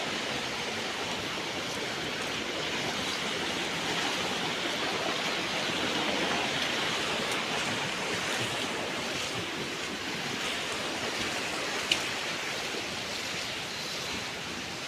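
Steady rushing of flowing river water, swelling slightly midway, with one short click near the end.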